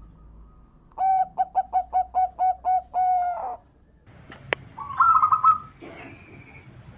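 Zebra dove (perkutut) cooing: a quick series of about ten staccato coos begins about a second in and ends on a longer drawn-out note. A sharp click comes a second later, followed by a brief higher, faster trill of notes.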